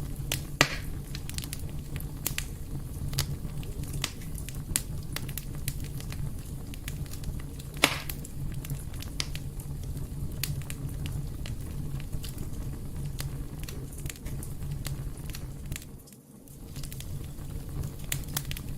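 Wood fire burning in a fireplace: a steady low rumble of flames with constant crackling and scattered pops, two of them louder, about half a second in and near eight seconds in. The sound briefly drops away about sixteen seconds in, then returns.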